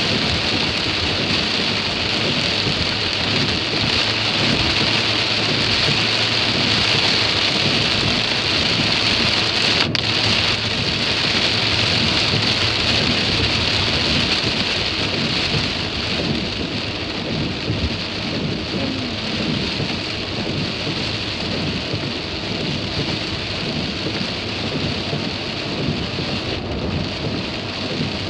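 Heavy rain falling on a moving car, a steady dense hiss over a low rumble, easing slightly about halfway through.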